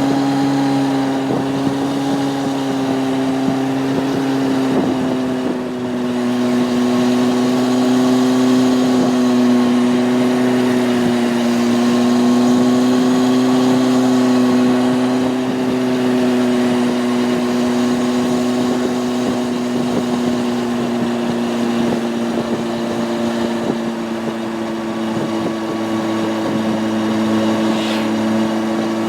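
Honda CB600F Hornet's inline-four engine running at a steady cruise, heard from on the motorcycle. The engine note holds nearly constant, with a brief dip in level about five seconds in.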